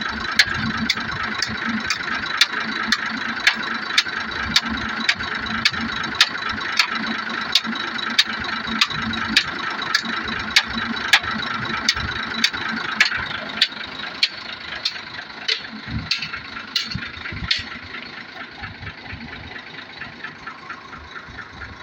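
A vehicle engine running steadily, with sharp clicks about twice a second that stop a few seconds before the end; the engine sound drops off somewhat past the middle.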